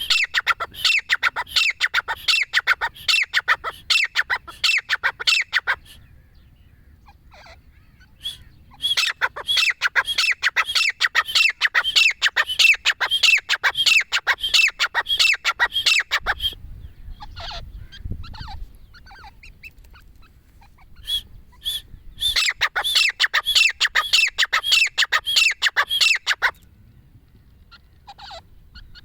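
Francolins (teetar) calling: loud, rapidly repeated notes, about three or four a second, in long bouts. One bout ends about six seconds in, another runs from about eight to sixteen seconds, and a third from about twenty-two to twenty-six seconds, with scattered softer notes in the pauses.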